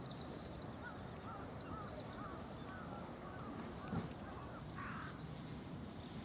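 Birds calling outdoors: a run of a dozen or so short repeated notes, then a single noisier call about five seconds in, over a steady low background hum of wind and ambience. A soft low thump about four seconds in.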